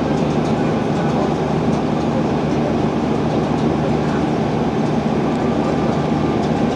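River sightseeing boat's engine running steadily on board, a constant low drone.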